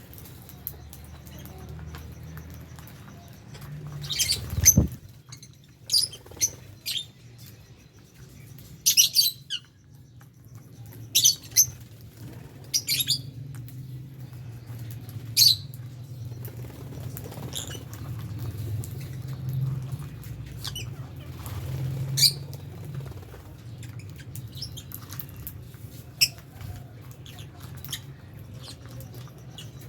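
Lovebirds chirping in an aviary: short, sharp high chirps in scattered clusters every second or two, with a thump about five seconds in, over a low steady hum.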